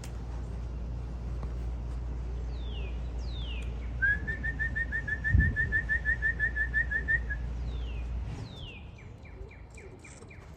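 Wild songbirds singing: repeated quick whistles that slide down in pitch, and a rapid even trill of about six notes a second lasting around three seconds. Wind rumbles on the microphone until about eight seconds in.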